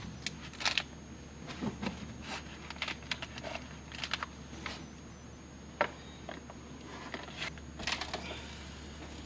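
Scattered light clicks and knocks of kitchen work, such as dishes and utensils being handled, over a low steady hum.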